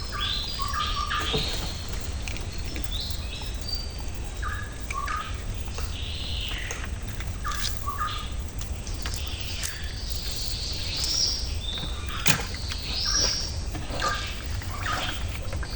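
Wild birds calling: repeated short chirps and whistles, some sliding in pitch, over a steady low rumble. There is a sharp knock about twelve seconds in.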